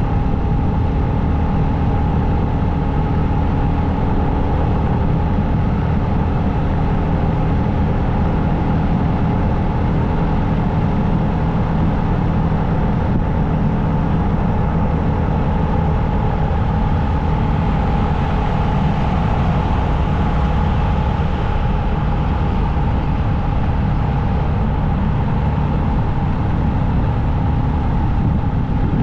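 Motorcycle riding at a steady highway speed: a constant engine drone over a steady rushing noise, unchanged throughout.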